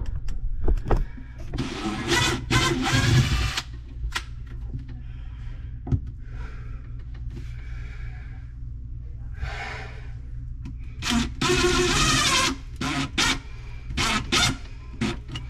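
Cordless drill-driver whirring in short runs as screws are backed out, with two longer runs of about two seconds, one near the start and one past the middle, and a few brief bursts near the end.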